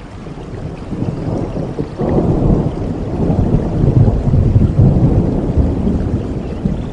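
Rolling thunder: a deep rumble that swells suddenly about two seconds in, is loudest midway, then slowly fades, over steady rain.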